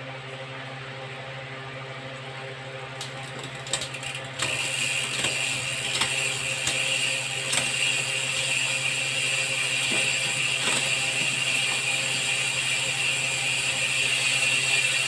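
Bicycle's Shimano Deore 12-speed drivetrain turned by hand. A few sharp clicks come first, then from about four seconds in the chain and rear wheel spin with a steady ratcheting whir from the freehub.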